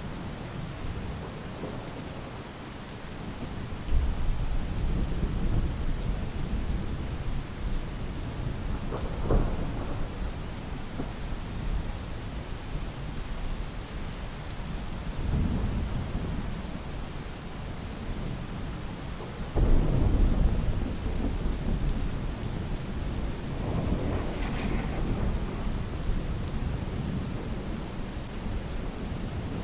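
Steady rain falling with rolls of thunder: deep rumbles that set in suddenly about four seconds in and again past the middle, with smaller rumbles between.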